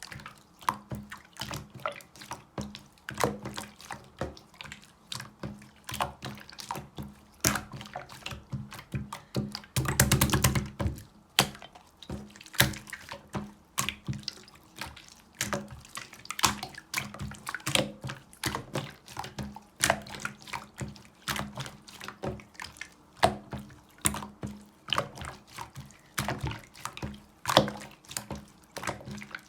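Clear slime being pressed and squeezed by hand, making irregular wet clicks and pops, with a denser run of squelching about ten seconds in.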